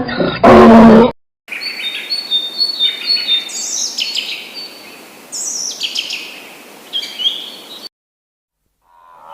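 A loud, drawn-out animal call ends about a second in. After it, small birds chirp and twitter in quick, high, short notes over a steady background hiss, stopping abruptly near the end.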